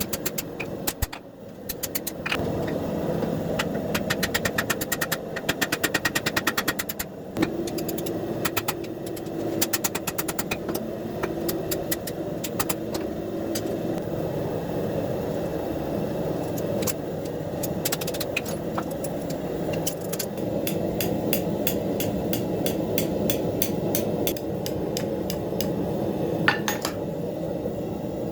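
A hand hammer striking hot 5160 leaf-spring steel on an anvil in fast runs of blows with short pauses, over a steady low roar.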